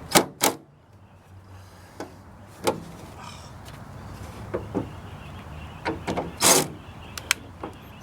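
Scattered clicks and knocks of a socket wrench and metal window-regulator parts being worked inside a car door as the regulator bolts are done up, with a short scrape about six and a half seconds in.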